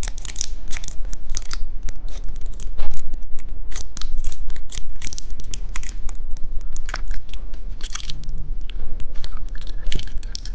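Close, irregular crackling and crinkling of plastic candy and toy wrappers being handled and opened, with many sharp clicks.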